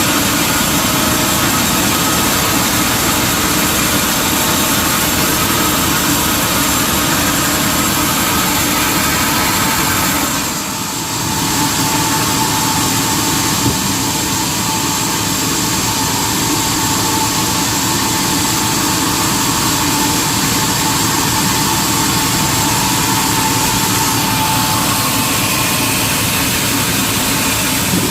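Sawmill machinery running steadily, a loud continuous mechanical noise with a steady high tone through it, briefly dropping in level about ten seconds in.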